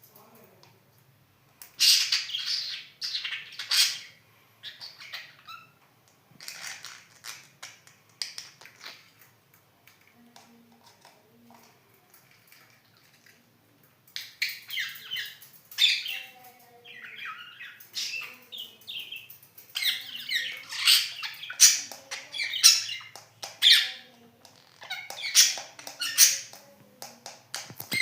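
Budgerigar chattering and chirping in bursts of quick, high warbling, sparse through the middle and busier again in the second half.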